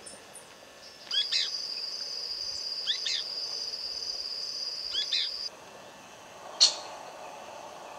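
Birds calling in forest: three short falling calls over a steady high-pitched tone that starts abruptly about a second in and stops suddenly about halfway through, then a single sharp chirp.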